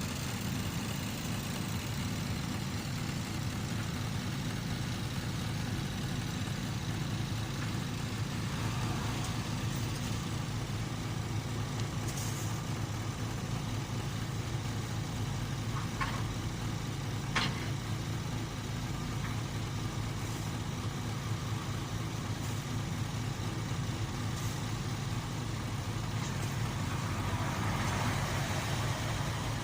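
Heavy road-construction machinery running steadily, a continuous low engine drone, with two short sharp sounds a little past halfway.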